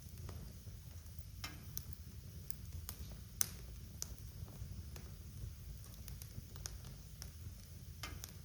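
Fire crackling in a fireplace: scattered sharp pops and snaps over a low steady rumble, with one louder pop about three and a half seconds in.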